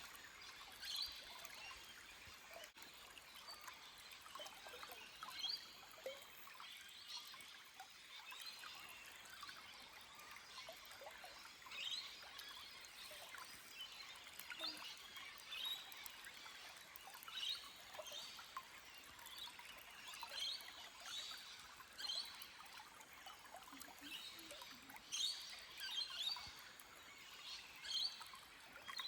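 Small forest stream trickling and flowing over rocks, with birds chirping in short scattered calls.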